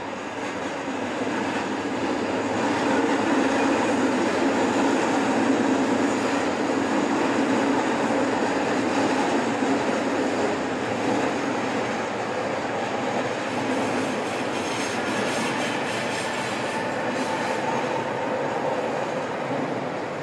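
Odakyu Romancecar MSE electric express train running over a level crossing: a steady rumble of wheels on the rails, loudest a few seconds in, easing slowly as the cars go by and falling off near the end as the last car clears.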